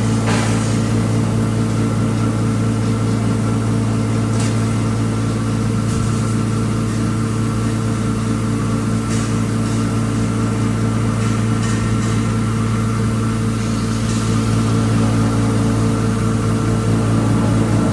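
3 HP coriander (dhaniya) grinding machine running with a steady, even hum, a few faint clicks heard over it.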